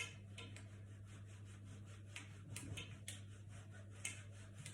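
Faint irregular clicking and tapping, a few light ticks a second, from a small handmade model structure rattling on its base as it is shaken, over a steady low electrical hum.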